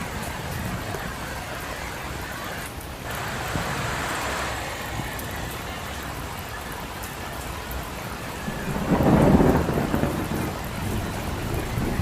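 Steady rain falling on a street, an even hiss, with a brief louder low swell about nine seconds in.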